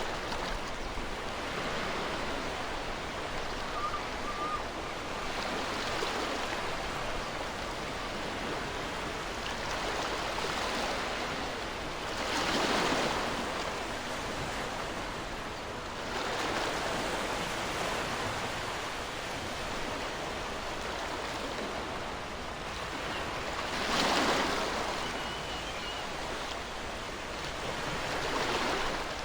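Ocean surf washing steadily on a shore, with louder waves breaking and swelling about twelve seconds in and again about twenty-four seconds in, and a smaller swell near the end.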